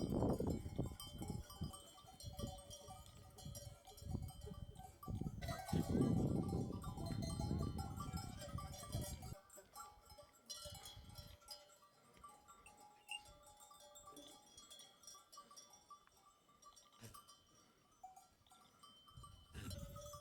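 Bells on a flock of sheep ringing and clinking, with occasional sheep bleats. A heavy low rumbling noise fills the first half, then the bells carry on more quietly.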